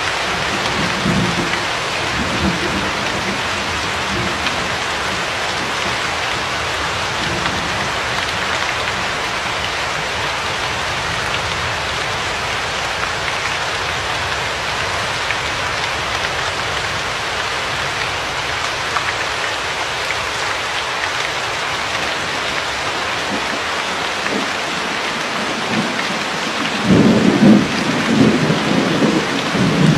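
Steady, heavy rain with distant thunder rumbling low beneath it, a stronger roll of thunder building near the end.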